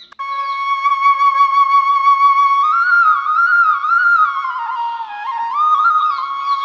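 Solo flute melody: background music of held notes stepping up and down with a slight waver, starting just after a brief break at the very beginning.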